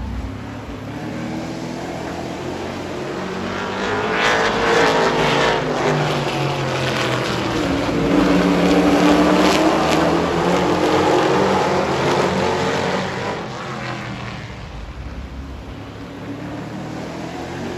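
Super truck race engines passing by on an oval track. The engine notes rise and fall in pitch as the trucks go past, swelling loudest about four seconds in and again from about eight to twelve seconds, then easing off.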